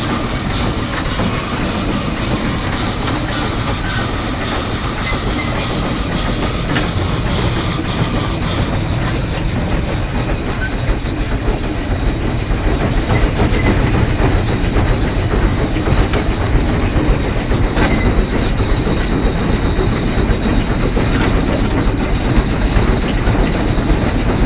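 Heisler geared steam locomotive under way, heard from its cab: a steady mix of wheels running on the rails and the engine working, with clickety-clack over the rail joints. It grows a little louder about halfway through.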